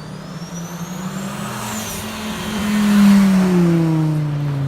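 Audi S1 rally car with its turbocharged five-cylinder engine passing by. A high whistle rises and then drops away after a couple of seconds. The engine note swells to its loudest about three seconds in, then falls in pitch as the car goes past.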